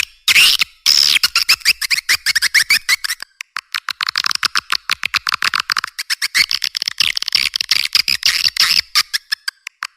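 Recorded swiftlet calls: edible-nest swiftlets twittering in rapid chattering trains of short chirps, with a run of falling chirps early on and a brief lull near the end. This is a swiftlet lure call, played to draw swiftlets into a nesting house.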